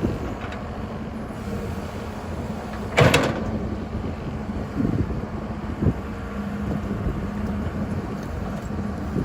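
Excavator diesel engine running steadily, with a sharp bang about three seconds in and two duller knocks a couple of seconds later.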